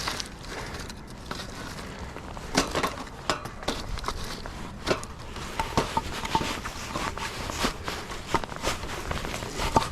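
Split firewood pieces knocking and clattering against each other as they are fitted into a stack, in irregular sharp knocks a few times a second.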